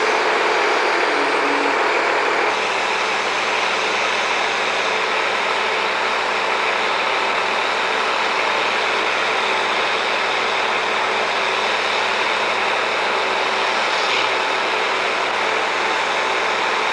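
Heavy construction machinery engine running steadily, with a slight drop in level about two and a half seconds in.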